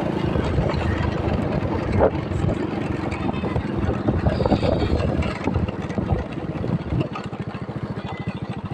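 Motorcycle engine running during a ride on a rough road. Through the middle it is broken up by knocks and rattles, and near the end it turns to a fast, even pulsing.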